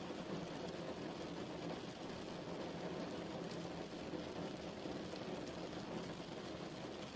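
Steady rain falling, an even patter.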